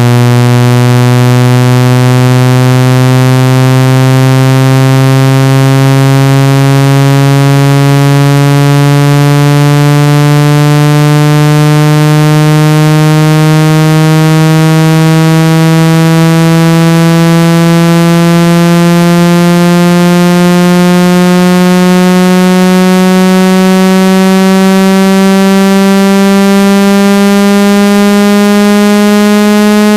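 Synthesized buzzing tone, rich in overtones, played loud and gliding slowly and steadily upward in pitch, roughly an octave over half a minute. It is a speaker water-ejection sweep, meant to vibrate a phone or earphone speaker so that trapped water is shaken out.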